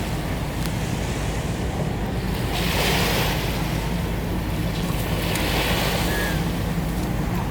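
Waves washing in, swelling twice, over the steady low drone of a boat engine, with wind buffeting the microphone.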